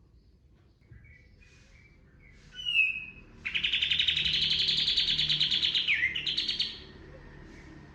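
Kapas tembak bulbul singing: a few short chirps, then about three and a half seconds in a loud, rapid, machine-gun-like trill lasting about three seconds, its pitch shifting near the end. This is the 'tembakan' burst that the bird is kept for.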